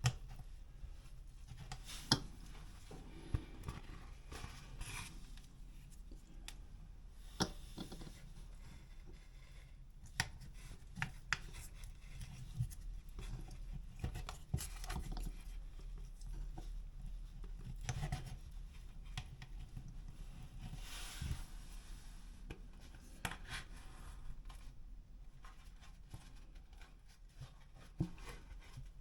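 Irregular scraping and rubbing of a spreading tool working quick-setting Evercoat Formula 27 filler into a drywall patch, with scattered sharp clicks and taps.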